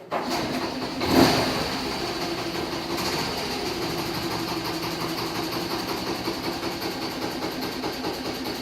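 Honda Super Cub's single-cylinder four-stroke engine starts, revs briefly about a second in, then settles into a steady idle. It runs with an abnormal mechanical noise despite its stock muffler, which the owner puts down to seizure inside the engine.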